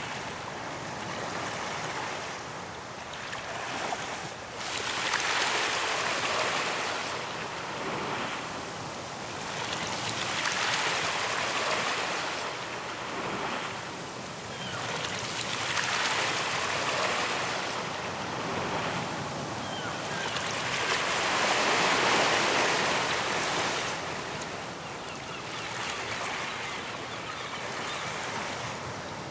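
Ocean waves breaking on a beach: a continuous surf hiss that swells and eases as each wave comes in, roughly every five to six seconds, with the loudest surge a little over 20 seconds in.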